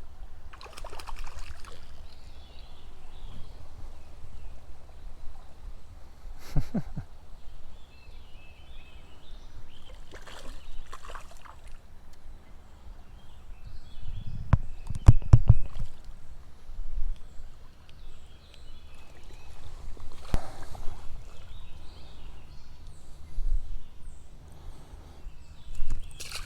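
Water sloshing and splashing in a trout stream as a landed rainbow trout is handled at the surface, over the steady flow of the creek. Irregular splashes, with a louder low rumbling slosh about halfway through.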